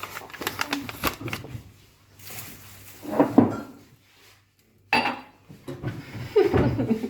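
Kitchenware being handled: a run of light clicks and clatter in the first couple of seconds, then a few louder knocks and rattles from dishes, utensils or containers.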